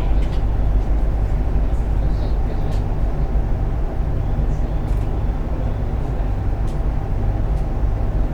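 Interior running noise of a JR East 701 series electric multiple unit on the move: a steady low rumble of wheels on rail heard from inside the car, with a few faint clicks.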